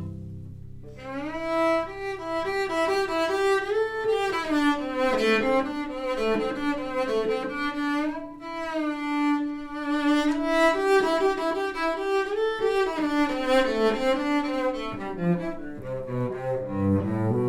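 Solo cello playing a bowed melody, mostly high in its range, with notes sliding up and down; deeper notes sound near the start and again near the end.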